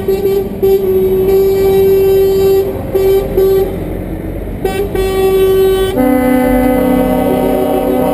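Truck air horns honking in long blasts with a few short breaks; a lower-pitched horn takes over about six seconds in.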